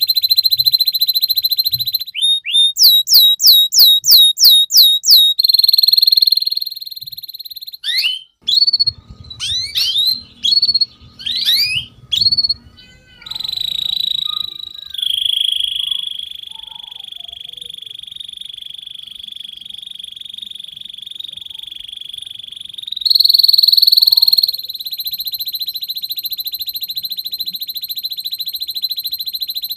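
Domestic canary singing: long, fast, steady rolling trills, broken early on by a run of about eight loud rising notes, then a stretch of quick, varied sweeping whistles before the rolls resume.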